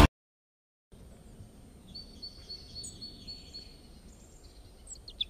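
After a moment of dead silence, faint outdoor background noise with a small bird chirping a quick series of short, high notes about two seconds in, and again just before the end.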